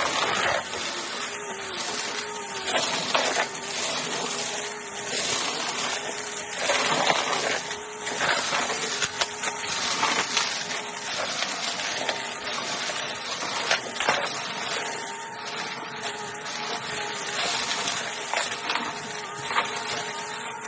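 Vacuum cleaner running with a steady motor hum while sucking up crunchy cereal from carpet, with crackling crunches in surges every second or two.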